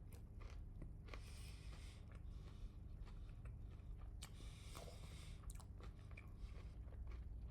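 Close-up chewing and biting into crispy bone-in spicy fried chicken, with two longer crunchy stretches and scattered small clicks of the mouth and food.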